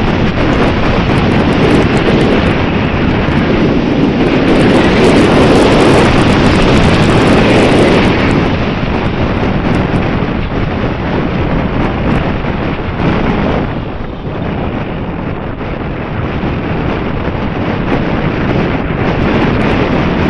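Strong wind buffeting the microphone: a loud, rough rush that swells and eases, strongest about four to eight seconds in and dipping around fourteen seconds.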